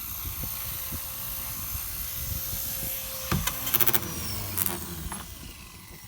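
Blade Fusion 180 RC helicopter's electric motor and rotor whining steadily, then a few sharp clatters a little past the middle as the pitch drops and the sound fades: the helicopter being brought down at the end of its flight.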